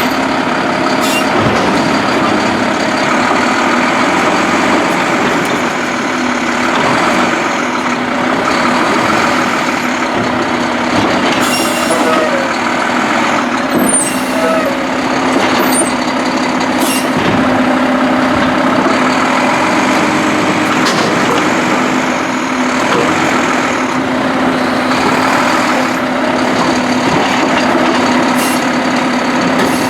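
Mack LR refuse truck with a Heil Durapack Rapid Rail side-loader body running steadily, a constant drone with a few sharp knocks and clanks scattered through.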